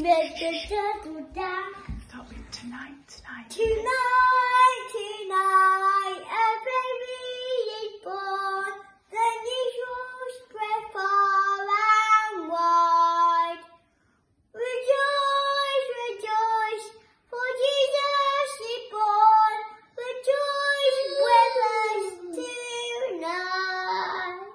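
A young girl singing a song solo and unaccompanied, in phrases broken by short pauses for breath. A few soft low bumps come in the first couple of seconds.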